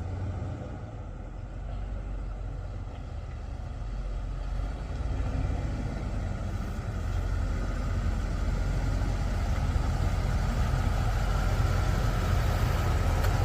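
A car engine running with a steady low rumble that grows gradually louder, with a faint whine rising slightly in pitch near the end.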